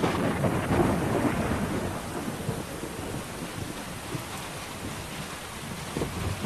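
Monsoon thunderstorm: heavy rain falling steadily under rolling thunder, with the rumble loudest in the first couple of seconds before it settles.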